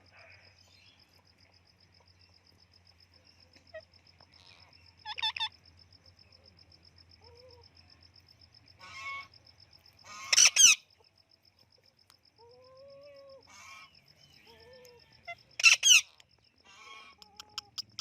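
Pet parrot (tia) giving harsh screeching calls, a handful of short separate squawks with soft whistles between them; the loudest squawks come about halfway through and again near the end.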